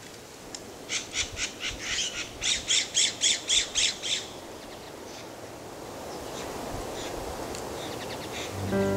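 A bird giving a rapid run of about fifteen harsh calls, roughly four a second, for some three seconds. A soft rushing noise then slowly rises, and music begins just before the end.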